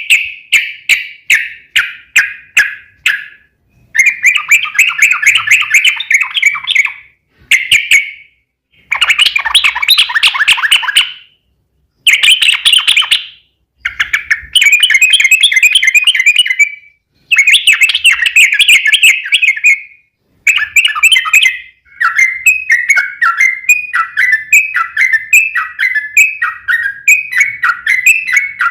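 Yellow-vented bulbul (trucuk) singing long rapid chattering phrases of bubbly repeated notes, broken by short pauses. Near the end the song turns into a run of short falling notes, about one and a half a second.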